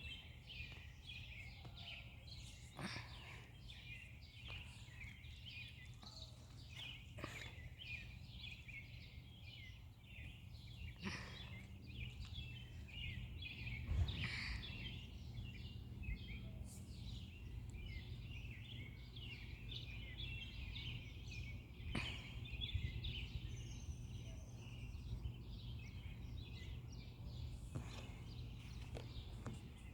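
Many small birds chirping and twittering continuously over a low, steady background rumble, with a few brief clicks.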